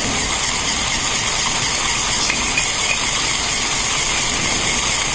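Battery-powered motor of a Lego Technic Mercedes-Benz Arocs 3245 (set 42043) running its pneumatic pumps, a steady mechanical whirr pushing air through the crane's hoses.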